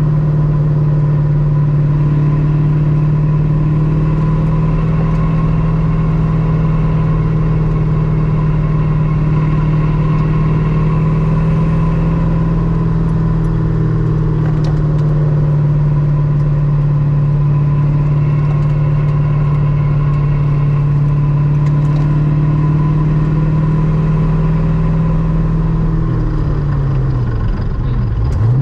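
Ultima RS kit car's GM LS-series V8 running at steady cruising revs, one even low engine note. Near the end the revs dip briefly and then settle a little lower.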